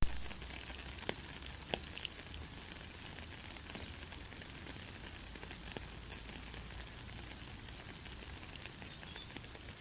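Steady soothing hiss, like light rain or sizzling, with scattered faint crackles in the first couple of seconds. It begins with a sharp click where the noise track starts.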